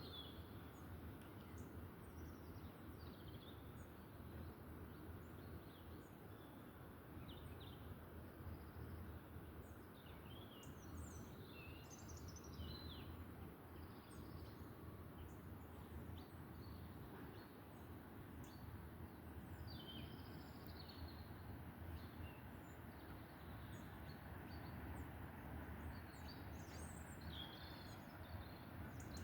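Small birds chirping and singing in short, scattered calls over a faint, steady low rumble of background noise.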